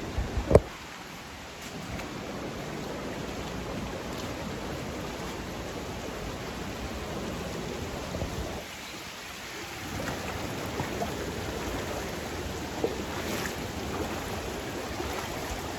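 Steady rush of a mountain stream flowing over rocks, with a few sharp knocks in the first second.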